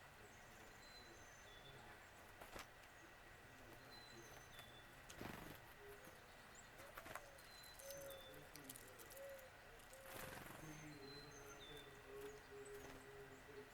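Faint wild birds calling: short high chirps repeated every second or two.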